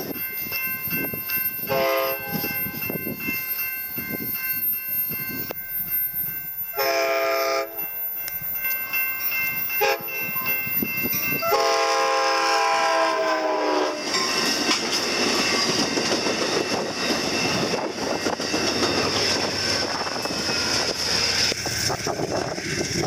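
Amtrak San Joaquin passenger train sounding its multi-note horn three times on the approach to a grade crossing: a short blast, a blast of about a second, then a long one of a couple of seconds. After the last blast the train runs past with a steady loud rumble, and a crossing bell rings in the first half.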